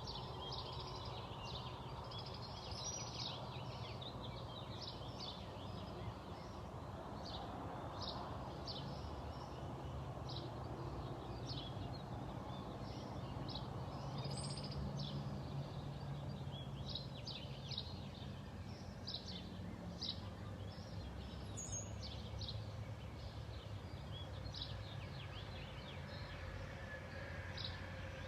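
Birds chirping: many short, high chirps, irregularly spaced, over a steady low background rumble.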